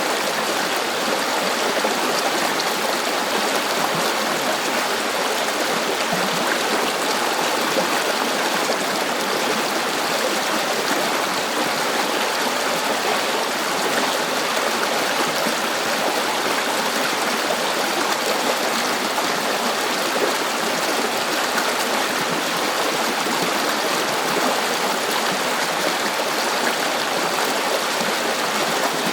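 River water flowing over rocks: a steady rushing and babbling with no change in strength.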